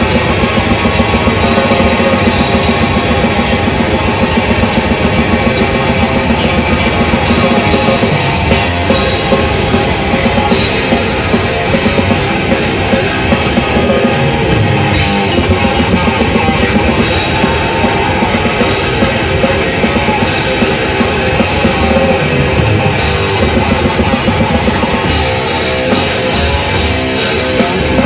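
Death metal band playing live: heavily distorted electric guitars over fast, dense drumming with cymbals.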